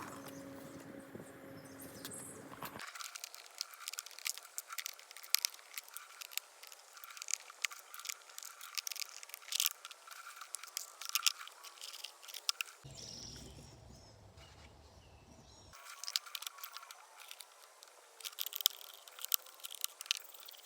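Irregular light clicks and taps of parts being handled and worked on during repair of a shop vacuum.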